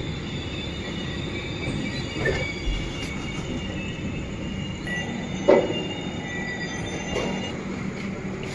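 Express passenger train running slowly on its rails, with a steady rumble and thin, high squealing from the wheels. A few short knocks come through, the loudest about five and a half seconds in.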